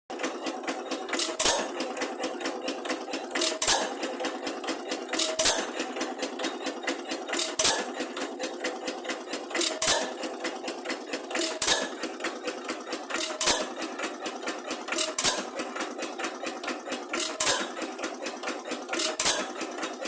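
Old single-cylinder stationary engine running: a heavy knock about every two seconds, with a fast, light mechanical clatter in between.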